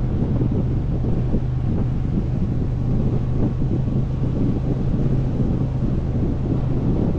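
Motorcycle engine running at a steady cruising speed, its low drone holding constant, buried under heavy wind buffeting on the microphone.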